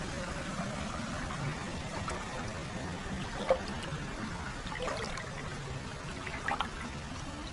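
Hot-spring water pouring steadily into a footbath, with a few small splashes and drips breaking through the steady flow.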